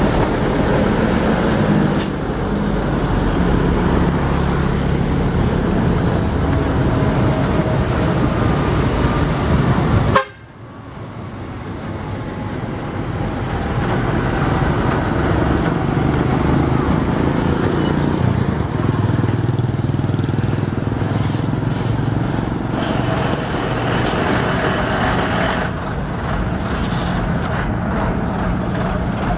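Diesel truck engines running under load as trucks climb a rough uphill road. About ten seconds in the sound cuts off abruptly and then builds back up over a few seconds.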